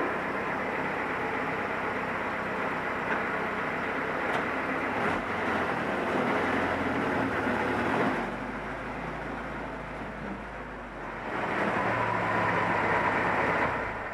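Willys Jeep's F134 four-cylinder engine running as the Jeep is driven and put away. It runs louder at first, eases off about eight seconds in, then picks up again near the end.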